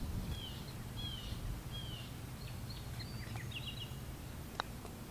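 Birds calling: three down-slurred chirps in the first two seconds, then a run of short quick notes, over a steady low rumble. A single sharp click about four and a half seconds in: a putter striking a golf ball.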